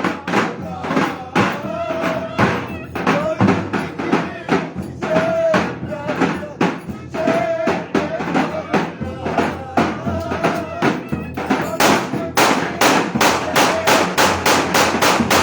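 Turkish folk dance tune (oyun havası) played live, driven by a davul beating a steady rhythm under a melody line. About twelve seconds in the drumming turns faster and sharper.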